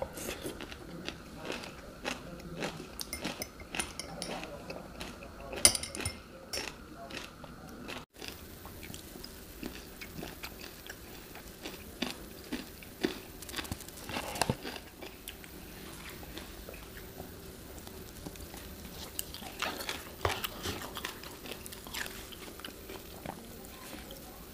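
Close-miked eating sounds: a person chewing and biting mouthfuls of instant cup noodles, with small clicks from a metal fork against the cup.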